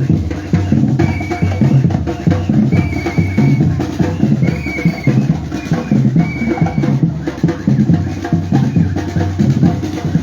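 Batucada drum group playing a fast, steady rhythm on bass and snare drums, with a few short high notes over the drumming.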